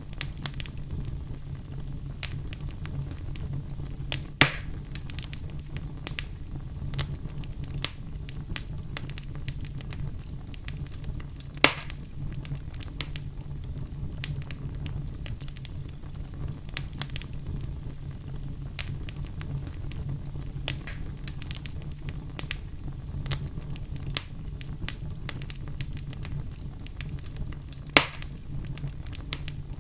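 Wood fire crackling in a fireplace: a steady low rumble under frequent small crackles, with three louder pops, about four seconds in, near twelve seconds and near the end.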